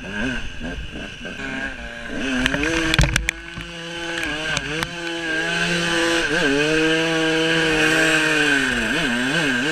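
KTM EXC 200 two-stroke enduro motorcycle engine revving up and down as the bike is ridden. A few sharp knocks and clatter come about three seconds in, the engine is then held at steady revs, and it drops off and blips near the end.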